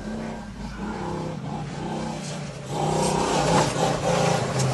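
Dirt bike engine running and revving, its pitch rising and falling, louder from about three seconds in.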